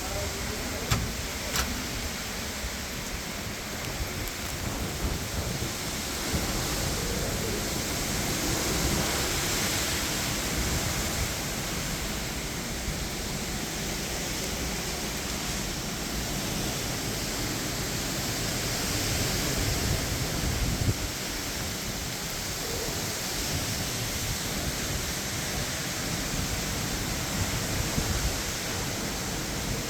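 Hurricane wind and rain, a steady rushing noise with uneven low rumbling of wind on the microphone. There are two short clicks about a second in.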